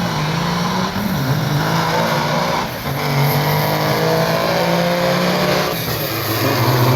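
Heavily modified diesel semi truck engines accelerating hard down a drag strip, the note climbing steadily. It breaks and drops twice, about three seconds in and again near six seconds, at the gear changes, then climbs again.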